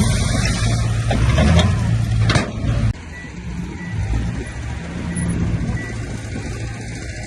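Heavy diesel earthmoving machinery running: a loud low engine rumble with a sharp knock about two and a half seconds in. The sound then drops abruptly to a quieter steady engine hum with a few faint short high beeps.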